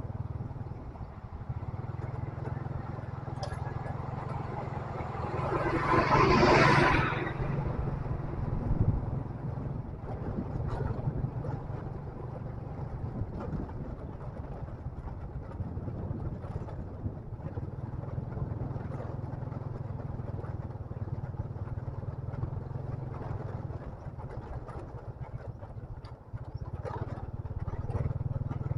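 Motorcycle engine running steadily while riding, with small rattles and clatters from the ride. About six seconds in, a louder rushing noise swells and fades over roughly two seconds.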